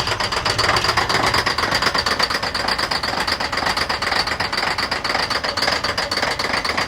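John Deere 9530T's big six-cylinder diesel running just after an ether-assisted cold start in sub-zero weather, knocking and pounding loudly in a rapid, steady rattle with a high whine over it.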